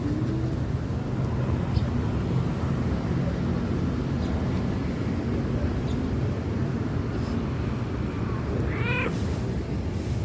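A cat meows once, briefly, near the end, over a steady low rumble.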